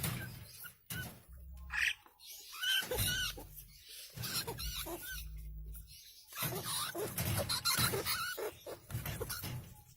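A rat squealing repeatedly in short high cries, mixed with scratching and knocking.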